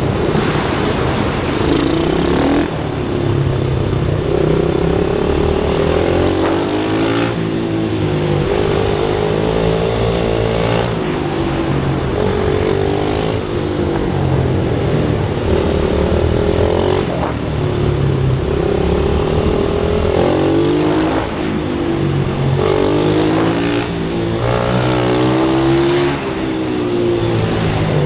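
Pit bike engine running hard on track, its pitch rising and falling over and over as the rider accelerates, shifts and backs off, with a brief dip every few seconds.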